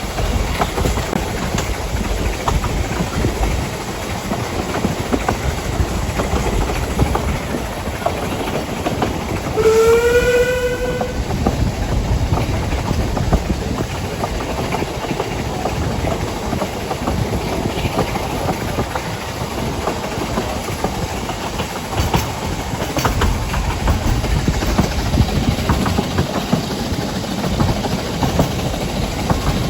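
Narrow-gauge train running, a steady rumble with faint rail clicks. About ten seconds in, the train whistle sounds once, for about a second and a half, rising slightly in pitch.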